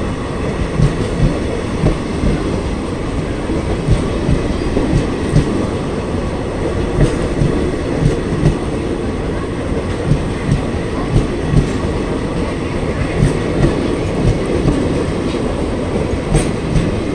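Indian Railways passenger coaches rolling past close by: a steady rumble with a regular clatter of wheels knocking over rail joints, the knocks often coming in pairs.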